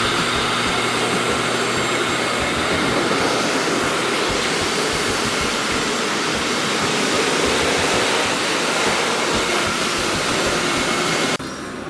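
PetieTec LPH03 hands-free pet hair dryer blowing air steadily, a loud, even rush of air that stops suddenly near the end.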